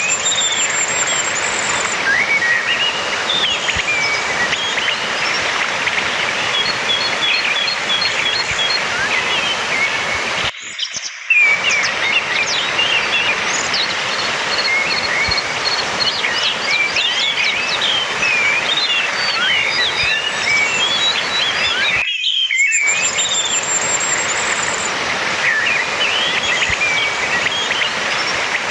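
Orange-headed thrush (anis merah) song: a varied run of whistled notes and fast, high trills over a steady hiss of background noise, with brief breaks about eleven and twenty-two seconds in where the recording loops.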